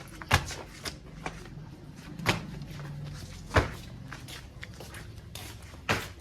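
A few sharp knocks or bangs, about four spread over six seconds, over a low steady hum.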